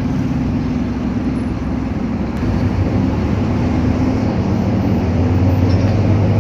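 Rear-mounted engine of a Scania K310UA Euro 3 articulated bus running under way, heard from the back seats near the engine. It drones steadily and grows gradually louder toward the end.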